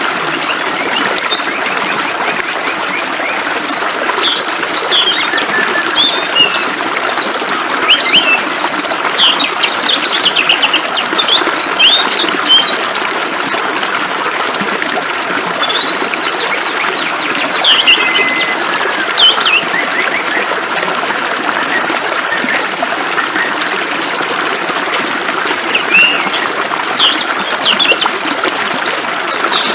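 Small songbirds chirping and twittering in many short, quick calls over the steady hiss of flowing water. The chirping is busiest in the first half, thins out around the middle, and picks up again near the end.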